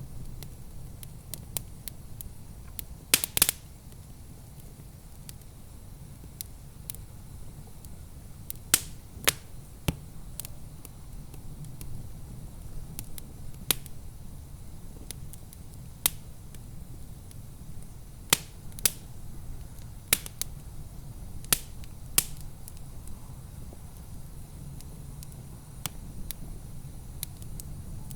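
Wood fire crackling in a fireplace: sharp, irregular pops every second or so, a few louder ones, over a steady low rumble.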